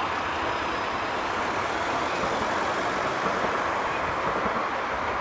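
Scania P410 fire engine's diesel engine running, with steady road and traffic noise.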